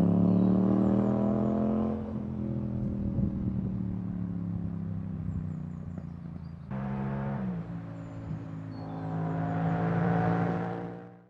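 Yamaha MT-07 parallel-twin motorcycle engine running on the move, its pitch easing down over the first couple of seconds, then holding steady. About seven seconds in the tone changes abruptly, and it climbs again near the end before fading out.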